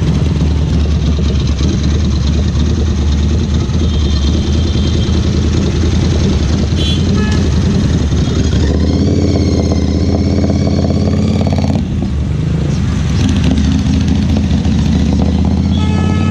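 Ducati Scrambler Cafe Racer's 803 cc air-cooled L-twin engine and exhaust running steadily under way, with no sharp revving. A wavering high-pitched tone sounds over it for about three seconds midway, and short high beeps come briefly near the end.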